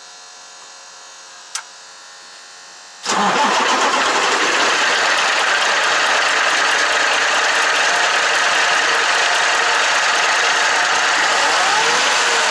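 Volvo VNL truck's diesel engine running at steady speed. It comes in abruptly, loud, about three seconds in, after a faint steady hum with a single click.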